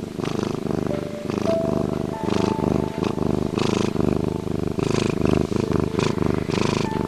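A cat purring, a rasping, pulsed rumble that swells and fades in a steady rhythm about twice a second.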